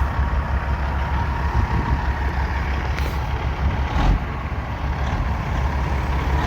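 A heavy dump truck's Caterpillar 3406 diesel engine running steadily with a low hum. Short knocks come about three and four seconds in.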